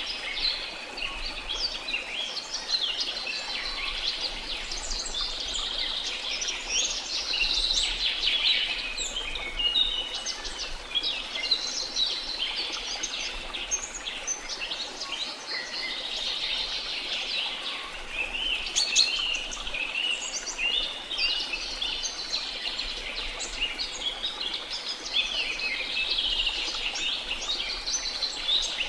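A dense chorus of many birds chirping and calling at once, short high notes overlapping continuously, over a faint steady background hiss.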